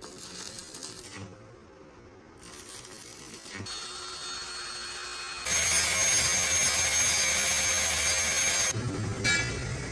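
A power tool runs for about three seconds with a steady high whine over loud hiss, starting about halfway in and cutting off suddenly; quieter workshop noises come before and after it.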